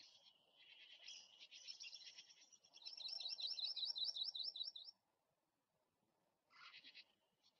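A bird singing: a run of quick, high, repeated chirping notes, loudest about three to five seconds in, then a short burst of notes near the end.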